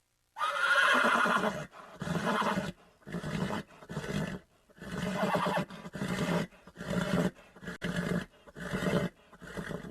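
A horse calling: one long neigh, then a quick series of about ten shorter, rhythmic calls.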